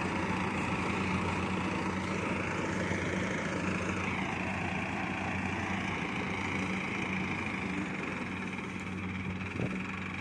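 Kubota DC70 Plus rice combine harvester running steadily: a diesel engine hum with a higher whine above it, and one small knock near the end.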